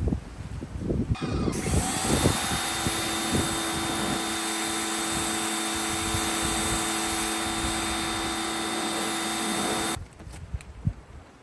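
Handheld electric power tool motor spinning up about a second in, running at a steady high whine for roughly eight seconds, then cutting off suddenly.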